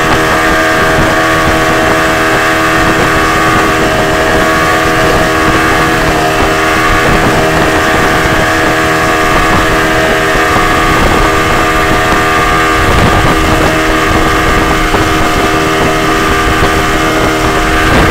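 Motorboat engine running steadily at speed, a loud, even drone with a constant pitch, mixed with water and wind noise.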